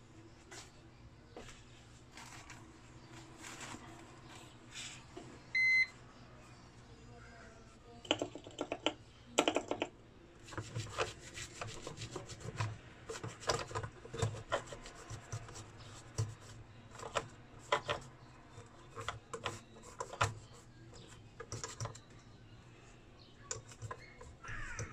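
Irregular clicks and scraping of hand work on an inverter circuit board, denser from about eight seconds in, over a faint steady hum. One short electronic beep sounds about six seconds in.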